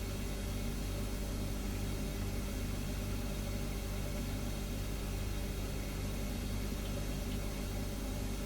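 Refrigerator humming steadily: a low, even hum with a faint hiss over it, unchanging throughout.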